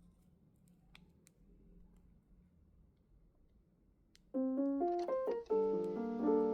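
Near silence with a few faint clicks, then piano-like keyboard background music starts about four seconds in.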